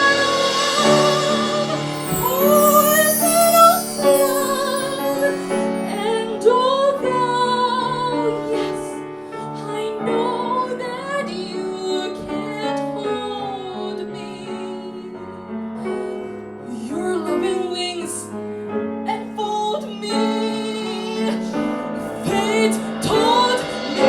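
A woman singing a melody with vibrato over piano accompaniment.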